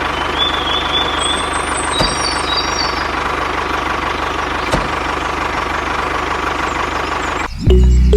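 Homemade tractor engine running steadily. Near the end it cuts off abruptly and music comes in.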